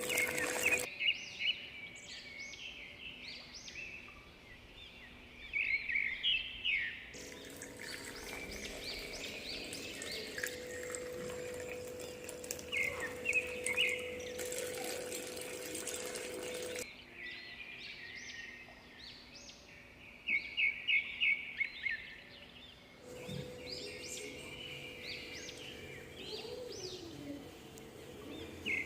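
Small birds chirping, with quick runs of repeated notes, over a faint background hiss; a faint steady hum comes and goes in some stretches.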